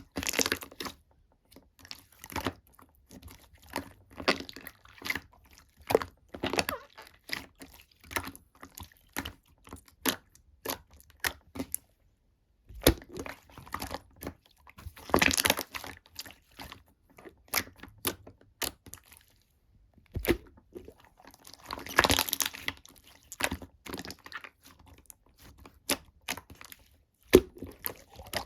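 Slime being handled, giving irregular sharp clicks and pops, with longer crackling bursts about 15 and 22 seconds in.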